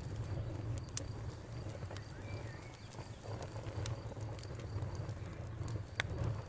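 Wood fire burning, with a few sharp crackles and pops of the burning wood over a low steady rumble. A faint steady cricket trill runs underneath, and a bird gives a short chirp about two seconds in.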